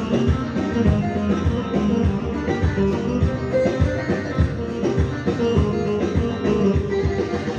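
Live Turkish wedding dance music: a davul drum beating steady strokes under a sustained melody line.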